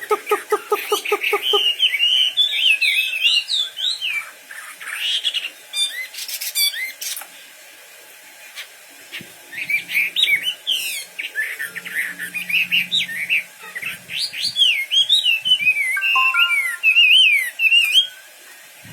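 A wambi songbird singing vigorously in quick, sliding whistled phrases, with a brief lull about halfway. It opens with a rapid pulsed chatter of several notes a second that stops after about a second and a half.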